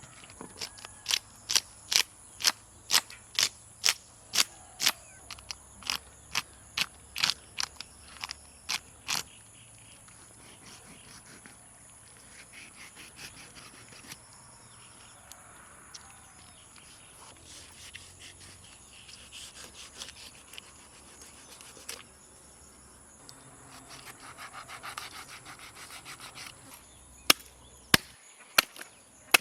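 A heavy knife chopping fish on a wooden block, at about two blows a second for the first nine seconds. Then come quieter scraping and handling sounds as the fish is cleaned, and a few more hard chops near the end.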